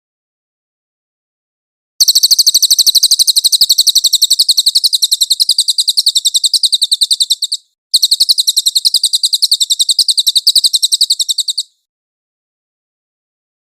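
Cililin bird song: a fast, even, high-pitched trill of chirps in two long runs of about six and four seconds, separated by a brief break. It starts about two seconds in and stops about two seconds before the end.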